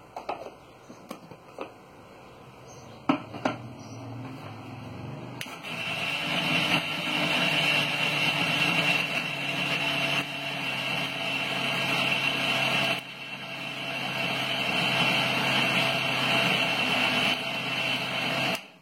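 A few light clicks, then an electric mixer grinder starts up and runs, grinding dry masala spices into powder. The grinding dips briefly about two-thirds of the way through and cuts off suddenly at the end.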